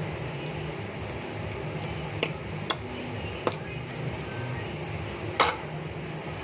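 Four sharp clinks of tableware, the loudest about five seconds in, over a steady low hum.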